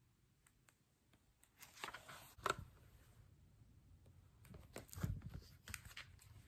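Faint handling noise of a hardcover sound book with a button panel being closed and turned over by hand: soft rustles and light knocks about two seconds in, and again about five seconds in.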